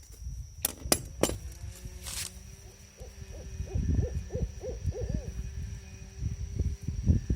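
A bird hooting: a run of short, low, arching calls about three a second, between about three and five seconds in. A few sharp clicks come before it.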